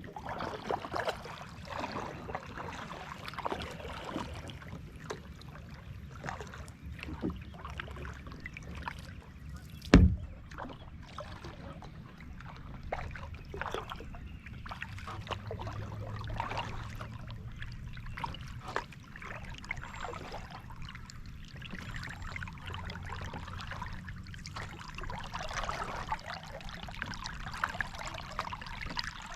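Water splashing and dripping around a paddled kayak, with many small ticks throughout. One sharp loud knock comes about ten seconds in.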